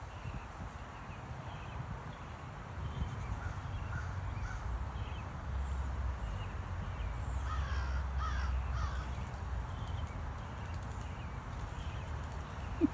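Backyard birds calling, with a crow cawing several times around the middle.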